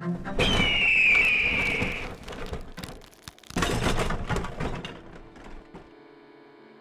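Cartoon sound effects: a loud crashing rush with a high screech falling in pitch, then a second crash-like burst about three and a half seconds in. It dies away to a low steady hum near the end.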